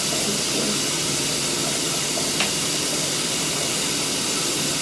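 Water running steadily from a tap, a constant hiss, with one faint click about halfway through.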